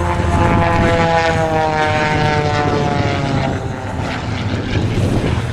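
Single-engine propeller aerobatic plane making a fast low flyby. The engine and propeller tone drops steadily in pitch during the first three and a half seconds as the plane passes.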